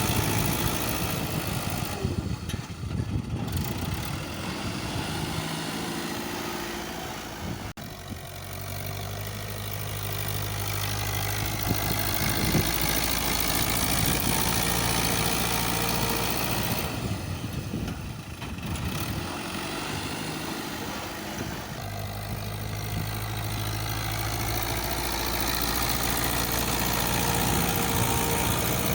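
Fiat 640 tractor's diesel engine running while working a front blade, its note rising and falling with the load, and a sudden break about eight seconds in.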